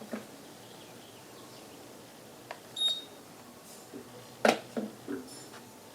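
A ceiling fan's remote-control system beeps once, short and high, about three seconds in. Handling knocks and clicks come before and after it, the loudest a cluster of three near the end, over a faint steady background.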